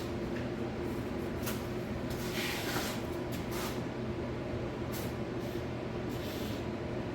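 WD-40 aerosol can spraying in several short hisses, the longest about two and a half seconds in, over a steady low hum.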